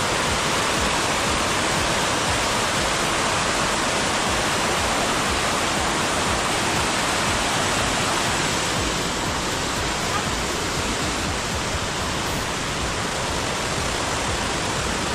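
Steady rush of water falling over a small waterfall into a natural pool, dropping a little in level about nine seconds in.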